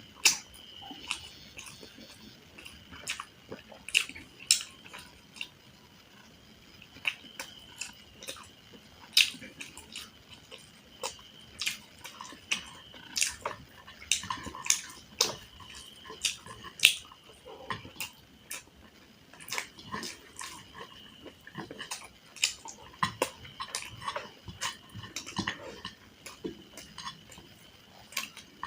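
Close-miked eating sounds: chewing with wet mouth smacks and sharp crunchy clicks, several a second in irregular clusters, over a faint steady high-pitched tone.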